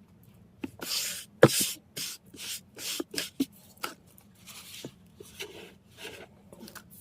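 Irregular rustling and rubbing handling noises, with several sharp clicks and taps; the loudest click comes about one and a half seconds in.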